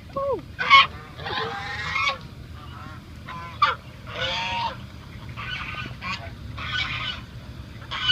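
Geese honking, a string of harsh calls about a second apart.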